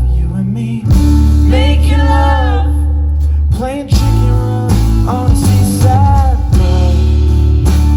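A live band playing a song: a singer's voice in phrases over guitar and a steady bass.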